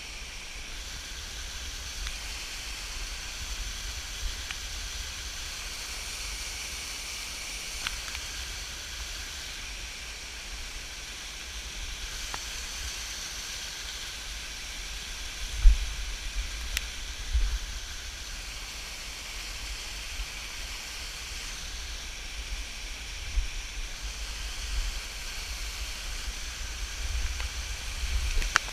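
Steady rushing hiss of a waterfall, with a few low bumps on the microphone about halfway through.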